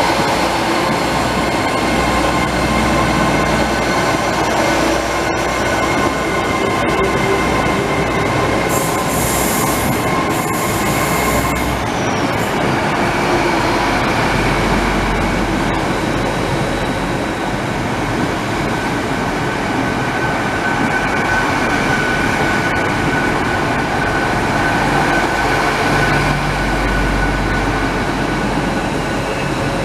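A train running through the station with a steady rumble and high wheel squeal. There is a short burst of hiss about nine to twelve seconds in.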